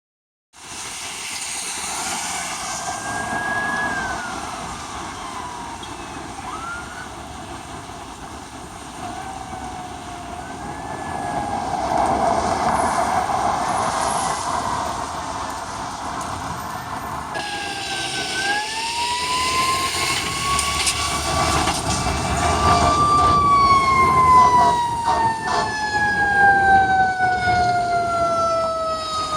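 Fire apparatus sirens wailing in slow rising and falling sweeps. A long rise comes about two-thirds of the way through, then a slow falling tone runs to the end.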